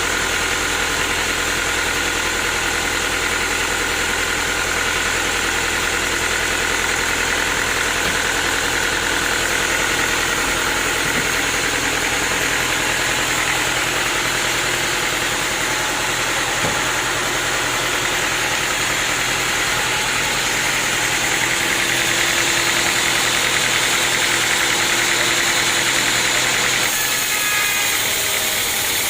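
Sawmill machinery running steadily, a loud, even mechanical drone with a change in tone near the end.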